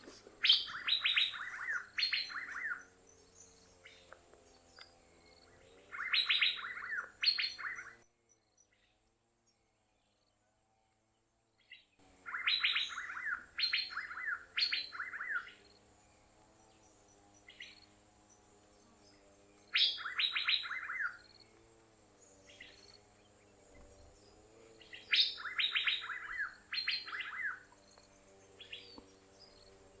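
Asian fairy-bluebird calling: short phrases of several quick, descending liquid notes, repeated every few seconds, with a break of about four seconds about a third of the way in. A faint steady high-pitched hum runs underneath.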